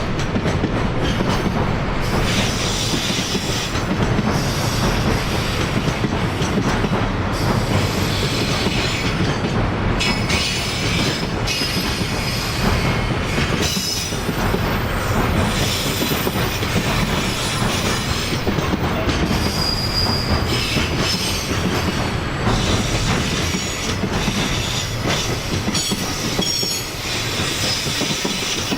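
Container flatcars of a long freight train rolling past at close range: continuous wheel-on-rail rumble and clatter, with high-pitched wheel squeals coming and going.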